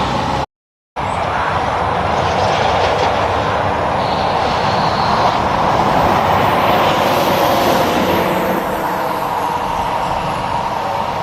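Steady road traffic noise of vehicles passing, mostly tyre and engine noise. The sound cuts out completely for about half a second near the start.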